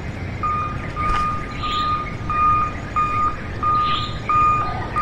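Electronic reversing-style warning beeper sounding a steady single-pitch beep about one and a half times a second, over a low rumble.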